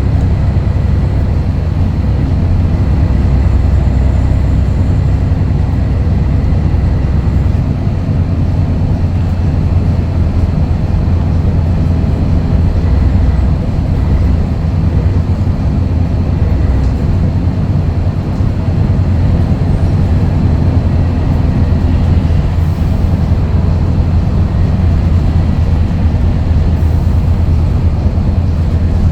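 Scania DSC11 11-litre six-cylinder turbo diesel in a Scania L113CRL bus, running steadily under way with a deep, loud note. The note shifts a few times, going by the pattern of the sound.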